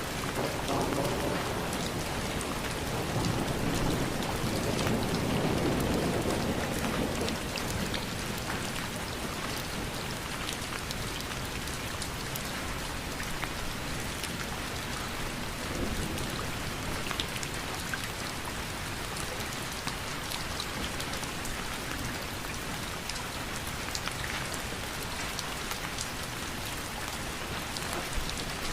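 Steady rain falling, with scattered sharp drop impacts. A low rumble swells and fades over the first several seconds.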